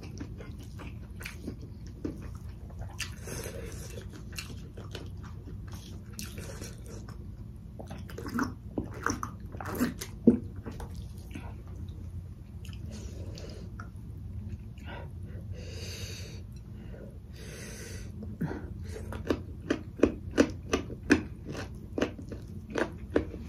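A person chewing and smacking while eating rice and curry by hand: short wet clicks that come in clusters, busiest about a third of the way in and again over the last few seconds.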